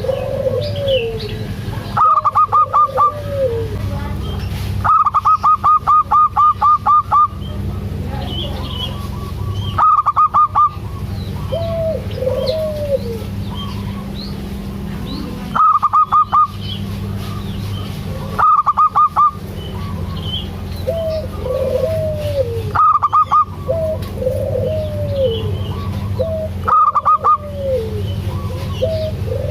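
Zebra doves (perkutut) calling. Loud bursts of quick repeated notes come at several points, and softer arched coos sound in between, over a steady low background hum.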